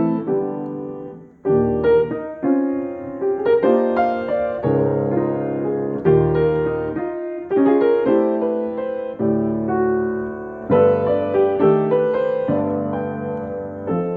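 Schultz & Sons 5'9" grand piano, a Samick-made stencil instrument, being played: a slow passage of chords and melody notes, each struck and left to ring, with a short break about a second and a half in.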